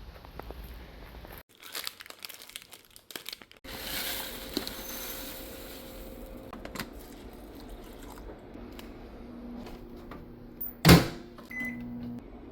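Kitchen handling sounds across several short cuts: rustling and crinkling of packaging, scattered clicks and taps, and one loud knock near the end.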